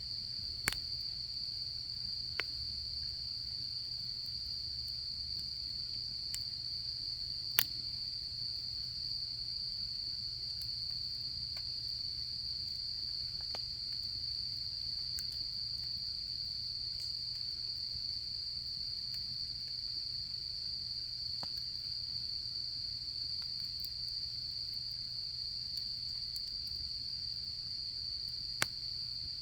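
Autumn crickets trilling in a steady, unbroken high-pitched chorus, with a wood campfire giving a few sharp crackling pops, the loudest about seven and a half seconds in.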